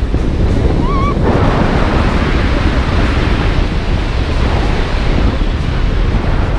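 Rushing air buffeting the camera's microphone during a skydive: a loud, steady roar of wind noise. A short wavering tone sounds briefly about a second in.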